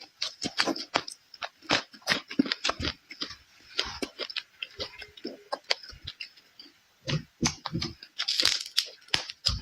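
A person chewing and biting crunchy food close to the microphone, in quick, irregular crackling crunches with a short lull near the end.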